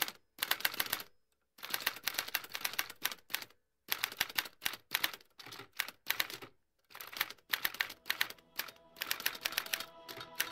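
Rapid key clicking like a typewriter, in runs of quick strokes broken by several short pauses.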